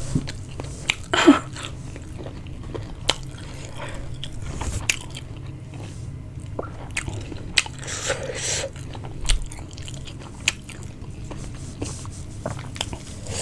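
A person chewing and biting food close to the microphone, with scattered wet clicks and smacks of the mouth.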